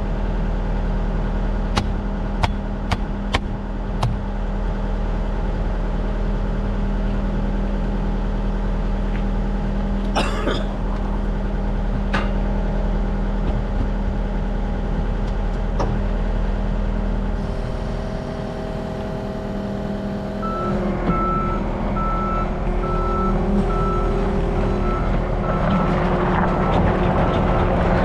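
A work vehicle's engine running steadily, with a few sharp clicks early on. About two-thirds of the way through, a backup alarm starts beeping in an even rhythm as the machine reverses.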